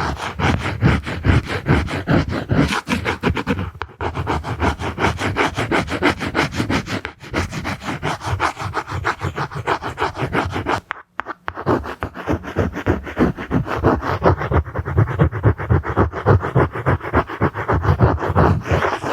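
Layered close-up ASMR scratching and rubbing, many quick strokes a second, pausing briefly about 4 and 11 seconds in.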